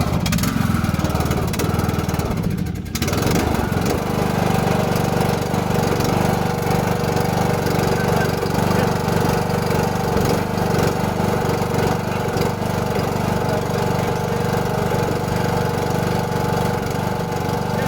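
John Deere engine running just after being started on a jumper battery, its speed changing briefly about three seconds in, then running steadily.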